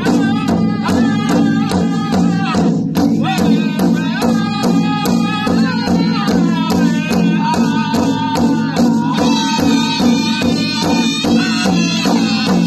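Powwow drum struck in a steady beat, about three strikes a second, with a group of voices singing a powwow song over it.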